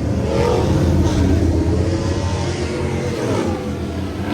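A car engine revving hard, its pitch rising and falling over a few seconds.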